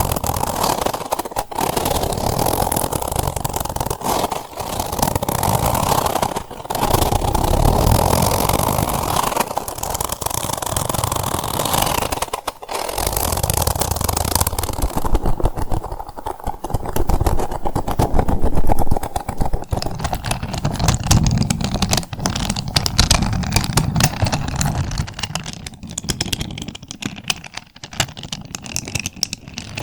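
Close-miked ASMR trigger sounds: a continuous, dense texture of fine rapid scraping strokes, with brief breaks about six and twelve seconds in.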